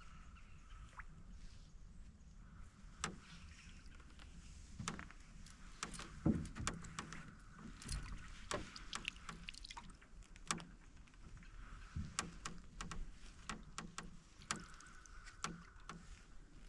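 Canoe being paddled: irregular knocks and clicks of the paddle against the hull, along with the creaking of the canoe.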